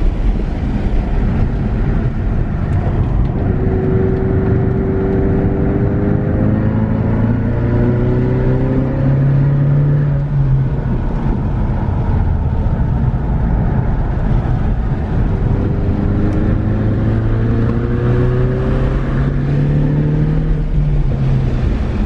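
Car engine heard from inside the cabin under hard acceleration on a track, its pitch rising slowly for several seconds. The pitch drops back about eleven seconds in, then climbs again, over steady road and wind noise.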